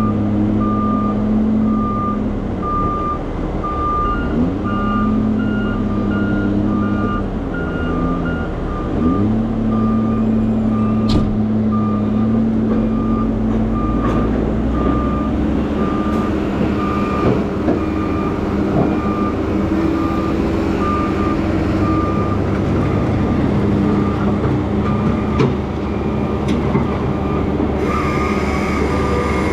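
Heavy diesel logging machinery running with a back-up alarm beeping about once a second while it reverses; for a few seconds near the start a second, slightly higher alarm beeps faster alongside it. The engine note rises and falls underneath.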